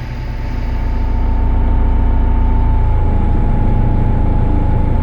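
Heavy machine engine running: its sound builds over the first second and a half, then holds steady, with a thin steady whine throughout.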